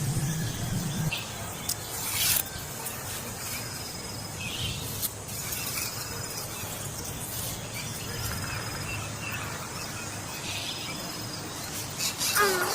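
Outdoor ambience of insects with a few brief high chirps and short clicks; near the end a loud squeal falls sharply in pitch.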